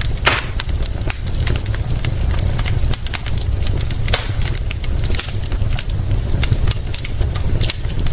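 Wood fire crackling with many sharp pops, one loud pop just after the start, over a steady low rumble.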